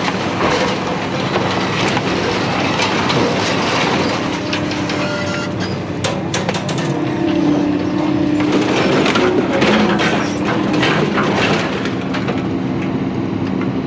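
Scrap metal being unloaded, with a dense run of metallic knocks and clatters that is busiest in the middle. A steady engine hum runs underneath.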